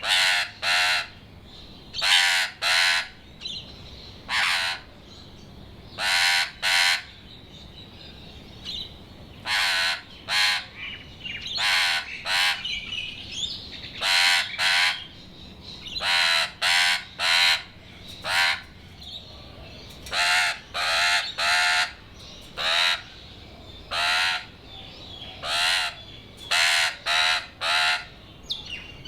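Australian magpie giving short calls over and over, singly or in quick runs of two to four, a sign of its agitation at a kookaburra nearby.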